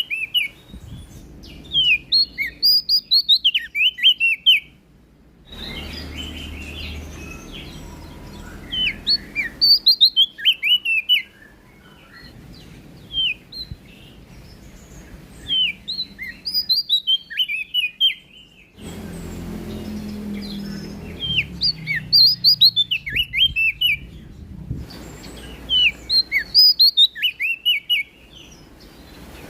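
A prenjak daun songbird singing: repeated phrases of rapid, sharp, high chirping notes, each burst a second or two long, coming every few seconds.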